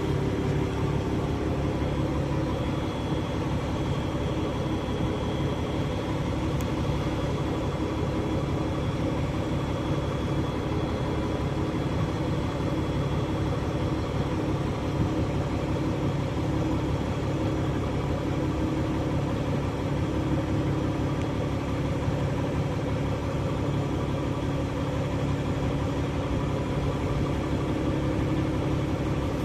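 A bus engine running steadily with a constant low drone, heard from on board the bus.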